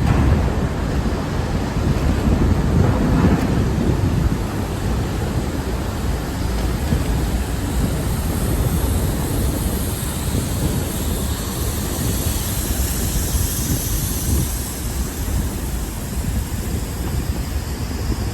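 Loud, steady rumbling noise with a hiss over it, without any distinct events.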